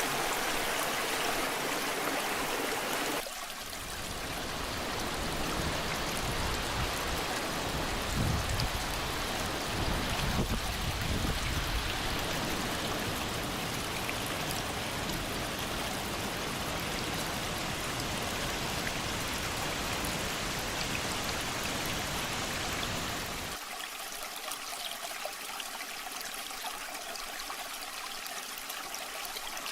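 Rushing waterfall water, a steady noisy splashing. It changes suddenly twice, a few seconds in and about three-quarters through, as if cut between different stretches of falling and flowing water; the middle part has a deeper rumble.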